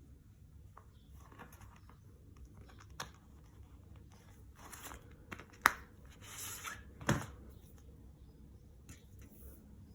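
Fire tongs and their holster case being handled: rustling and crinkling, a sharp click a little past halfway, then a knock about a second and a half later.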